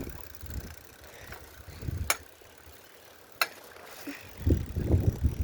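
Riding a bicycle with wind buffeting the phone's microphone, dropping off in the middle and gusting up again near the end. Two sharp clicks a little over a second apart.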